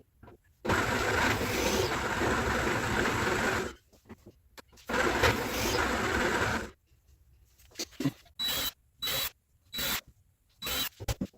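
A power tool run in two bursts of about three seconds and two seconds, then started in four short pulses near the end.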